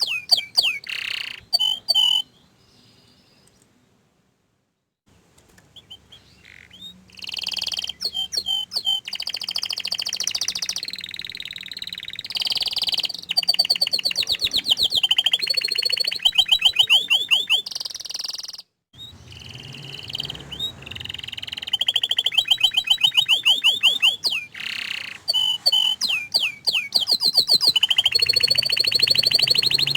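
Domestic canary singing a long song of fast trills and rolling notes, with a pause of a few seconds soon after the start.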